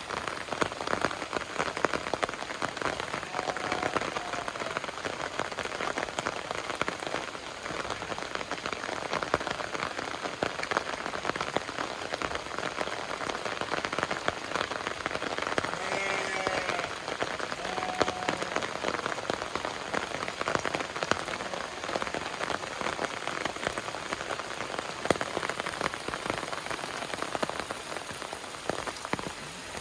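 Heavy rain falling steadily, with many separate drops striking. An animal calls faintly a few times, about four seconds in and again around the middle.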